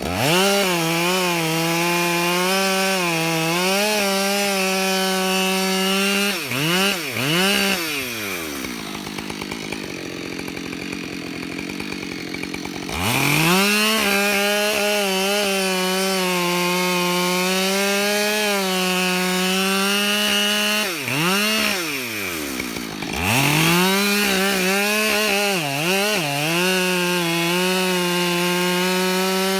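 Husqvarna 572 XP two-stroke chainsaw cutting through a log at full throttle, its pitch sagging a little under load. It drops back to idle for a few seconds about nine seconds in, revs up into the cut again, and lets off briefly once more just past twenty seconds.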